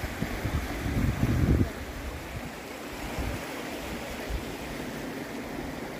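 Steady rush of a fast-flowing river, with wind buffeting the microphone from just after the start to about a second and a half in.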